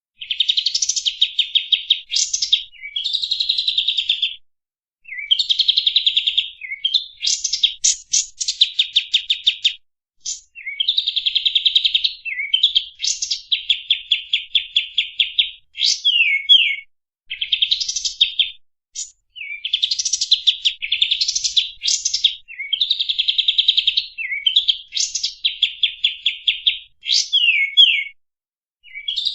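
Kapas tembak songbird singing. Phrase after phrase of fast, rattling trills and sharp chirps, high-pitched, with short pauses between the phrases.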